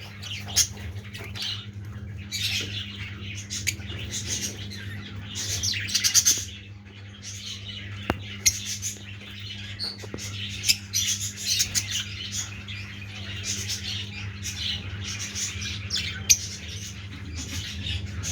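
Blue masked lovebirds chattering, with rapid shrill chirps and squawks overlapping throughout, over a steady low hum.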